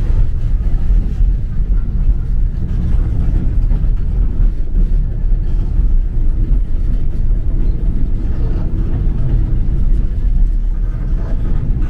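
Sagano sightseeing trolley train running along its track, a steady low rumble of wheels and running gear heard from inside a passenger car.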